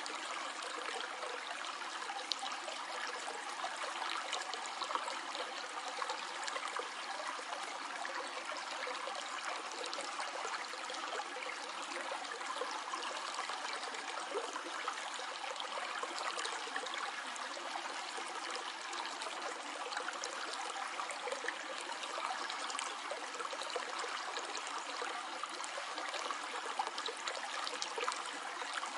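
A small stream flowing and trickling steadily, with little splashes and gurgles.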